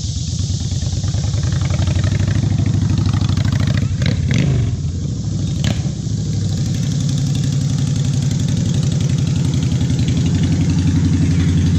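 A 2013 Honda Shadow Phantom's V-twin idling steadily through a freshly fitted aftermarket exhaust with its baffle in, a throaty pulsing note, with a brief wobble in the idle and a couple of sharp clicks about four to six seconds in.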